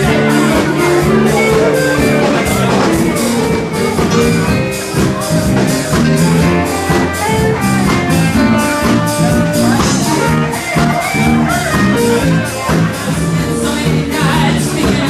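Live band music with a steady dance beat, drums and guitar, and some singing.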